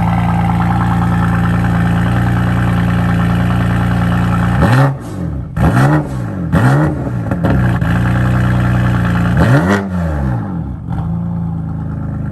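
BMW M4's S55 twin-turbo inline-six, on ARM resonated downpipes, a VRSF single mid pipe and the stock muffler, idling shortly after a cold start. It is blipped four times in quick free revs, about five, six, seven and ten seconds in, and the idle settles slightly lower near the end.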